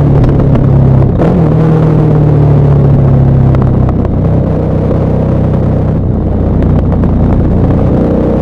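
KTM 1190 Adventure R's LC8 V-twin engine running on a downhill ride, its revs slowly falling through the first half, then a little lower and quieter, and rising again near the end.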